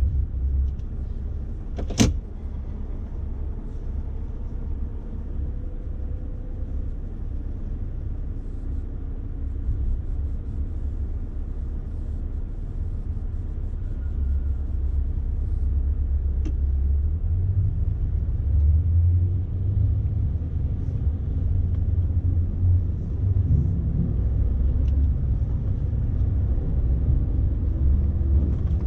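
Inside the cab of a loaded Scania S520 truck: a steady low rumble of its V8 engine and the road while driving, growing somewhat louder in the second half. A sharp click about two seconds in and a fainter one later.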